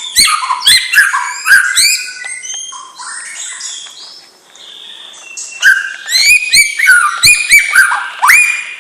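White-rumped shama singing: a fast run of loud rising whistles and sharp clicks, turning softer and more warbled for a couple of seconds in the middle before the loud rising whistles return.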